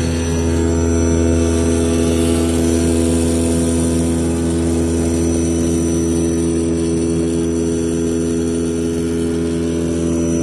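CNC knife cutting machine running as it cuts a 50 mm stack of non-woven fabric: a steady machine hum with several held tones.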